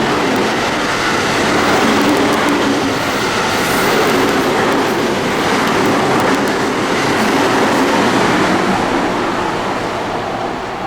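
A train passing through the station at speed: a loud, steady rush of wheels on rail and passing cars, easing off slightly near the end.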